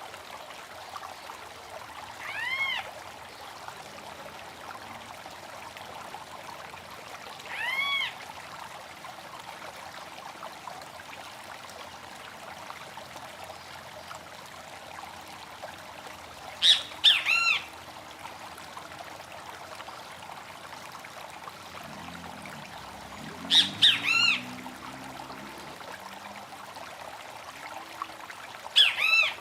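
Running stream with a bird calling over it five times: two single arched calls early on, then three louder calls later, each starting with a couple of quick sharp notes before a downward-arching note.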